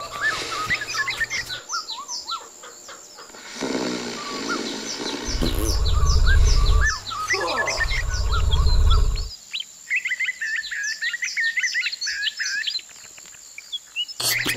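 Many quick, high bird chirps and warbling calls, several a second, with two long, low rumbling sounds of about a second and a half each in the middle, which are the loudest part.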